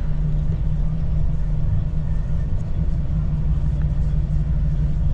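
A steady low rumble with no clear beat or change.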